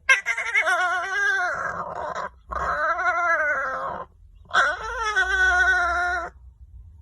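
Dog howling: three long, wavering howls in a row, with short breaks between them.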